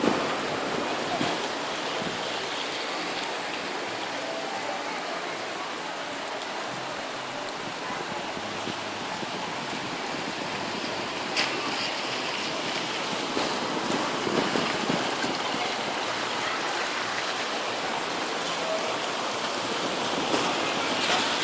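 Rain falling steadily, an even hiss of drops, with one sharp click about halfway through.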